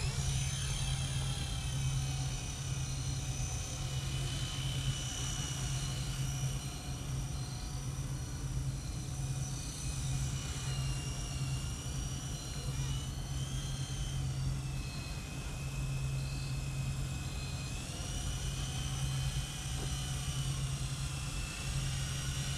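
Blade 120 S2 micro RC helicopter in flight: the whine of its electric motor and rotors climbs in pitch at the start, then holds steady, with the pitch dipping and rising a few times as it is flown.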